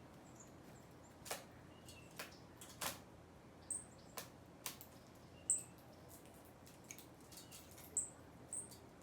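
Small birds giving short, very high chip notes every second or so, with scattered sharp clicks and taps among them.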